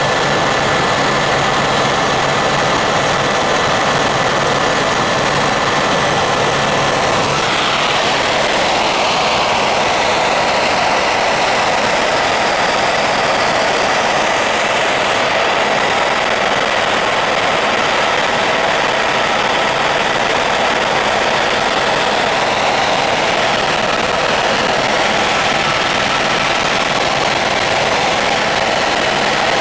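Helicopter engine and rotor noise heard from inside the cabin: a loud, steady drone. About seven or eight seconds in, a few steady tones in it drop away and the sound shifts a little.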